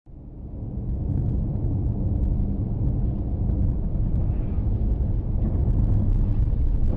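Steady low rumble of a car driving, engine and road noise as picked up by a dashcam, fading in over the first second.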